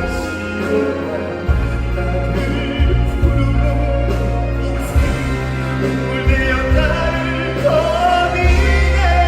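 Live concert performance of a trot song: a band plays through the hall's PA, with a steady bass line and a voice singing a long held note that slides up near the end.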